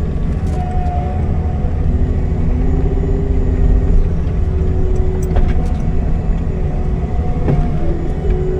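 CAT 310 excavator's diesel engine running steadily under work, with hydraulic whine shifting up and down in pitch as the controls are worked. A couple of sharp knocks come in the second half.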